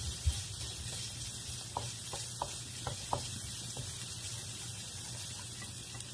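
Chopped onion and garlic sizzling in oil in a nonstick wok: a steady hiss, with a scatter of short light taps and scrapes from the wooden spatula stirring them.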